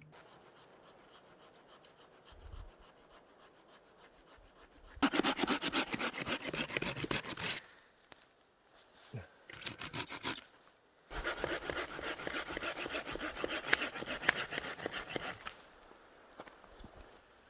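Hand saw cutting through firewood in three bouts of quick back-and-forth strokes, the longest near the end.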